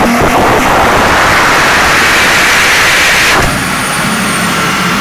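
Loud rushing noise on the dyno as the supercharged Golf V R32 comes off its full-throttle run. The rush cuts off suddenly about three and a half seconds in, leaving the engine running more quietly with a low steady hum.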